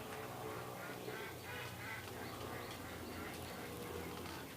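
Birds calling: a quick run of short, repeated calls, about three a second.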